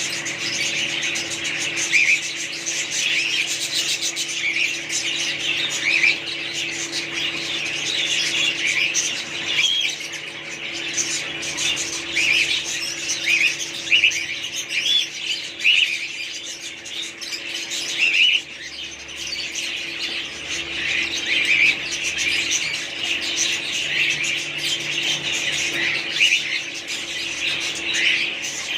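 Many birds chirping and squawking at once, a dense, continuous chatter of short calls, over a steady low hum.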